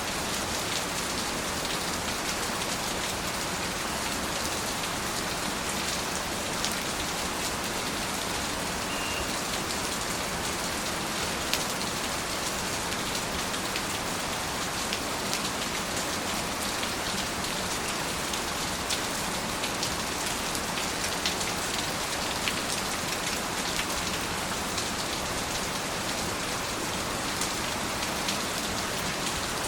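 Steady rain falling, an even hiss with the close patter of individual drops striking a surface.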